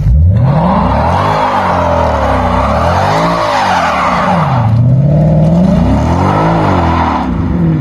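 A car engine revving up and down repeatedly under load while the tyres spin with a loud, steady squealing hiss, as in a burnout.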